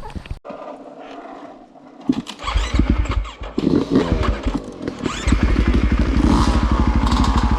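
Dirt bike engine starting about two seconds in, revved up a couple of times, then running with a steady rapid pulse.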